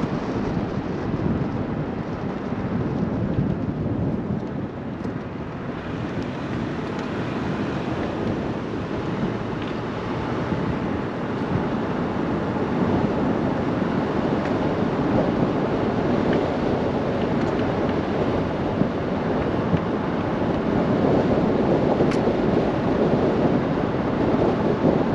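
Steady rumble of road and wind noise inside a moving car.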